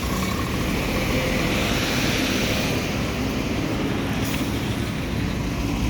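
Highway traffic: heavy vehicle engines running with tyre and road noise, swelling as a vehicle passes about two seconds in, and a short hiss about four seconds in.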